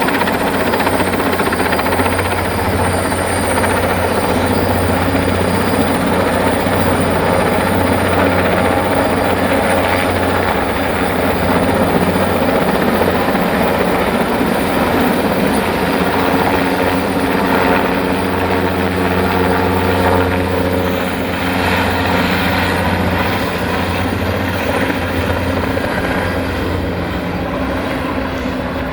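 Erickson S-64 Air-Crane twin-turbine heavy-lift helicopter running steadily, a loud, continuous rotor and engine noise with a thin high turbine whine that fades out near the end.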